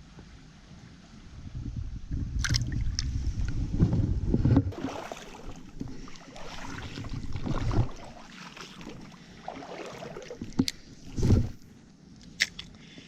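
Shallow stream water sloshing and splashing, with rumbling handling noise over the first several seconds and a few sharp knocks later, the loudest a short burst near the end.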